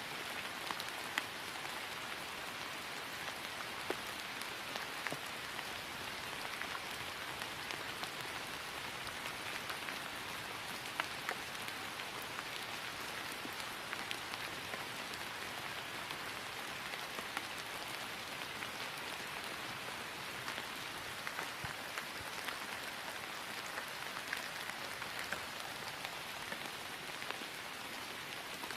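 Steady rain falling on grass: an even hiss of rainfall with scattered sharper drop ticks.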